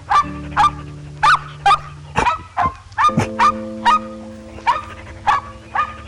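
An animal giving short, sharp barking calls, about a dozen at roughly two a second, over background music with held chords.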